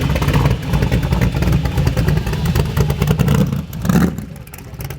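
Loud car engine running close by with a rough, pulsing beat, dropping in level briefly about four seconds in.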